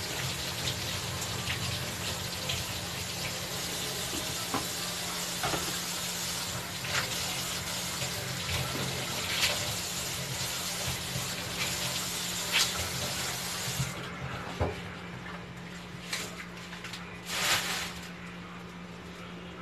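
Kitchen tap running into a sink, with scattered knocks and clicks of things handled under the water. The water shuts off about two-thirds of the way through, leaving a few clatters.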